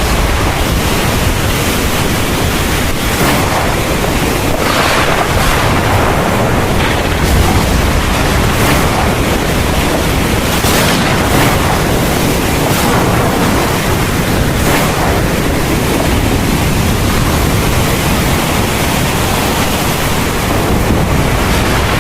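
Heavy rain in a thunderstorm, a dense steady hiss of downpour that swells briefly louder a few times.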